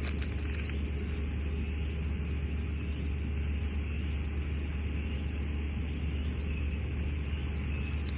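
An insect trilling in one high, steady note for several seconds over a continuous low rumble.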